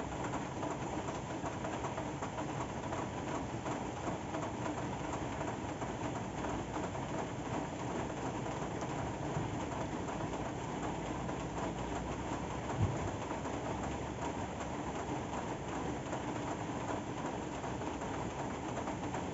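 Steady rain falling, with one short low thump about two-thirds of the way through.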